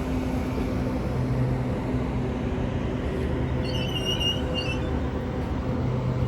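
Class 395 electric multiple unit creeping slowly into the platform, its traction equipment giving a steady hum. About two-thirds of the way through there is a short, high brake squeal as it slows to a stop.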